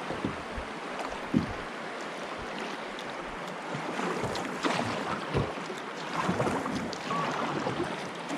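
Rushing, splashing river water as a kayak runs through shoal rapids, with wind buffeting the microphone. Scattered knocks and splashes run through it, with one sharp knock about a second and a half in.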